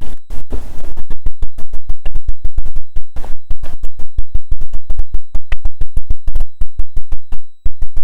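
Loud, rapid crackling and clicking, about eight to ten pops a second, with a faint steady high whine underneath: the interference of a badly plugged-in microphone.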